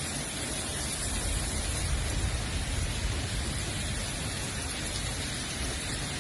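Steady hiss of heavy thunderstorm rain. A deeper low rumble swells for a couple of seconds about two seconds in.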